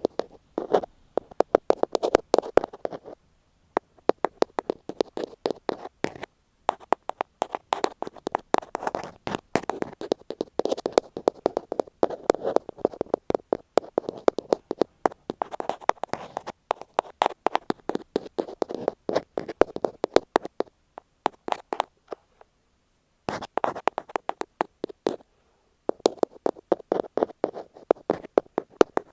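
Rapid tapping and scratching right on an earphone microphone, an ear-cleaning tapping sound. It comes in runs of a few seconds with brief pauses, the longest a couple of seconds past the middle.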